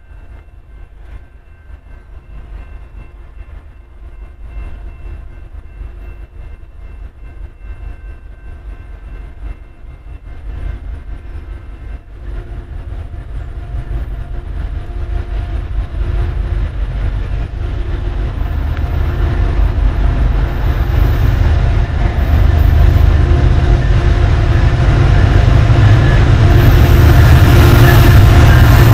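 A diesel-hauled train approaching along the track, its low rumble growing steadily louder over the half-minute until it is close and loud near the end.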